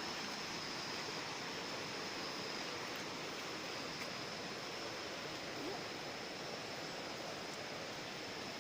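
Steady rush of water from a mountain stream or waterfall, with a thin, steady high tone above it.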